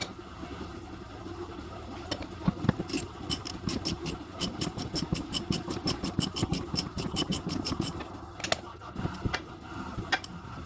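Ratchet wrench working on bolts, a run of quick, even clicks about four or five a second, with a few separate knocks of metal tools.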